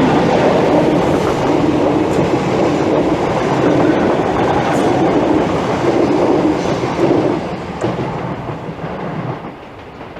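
Greater Anglia Class 321 electric multiple unit running through the station on the rails, its sound dying away over the last two seconds.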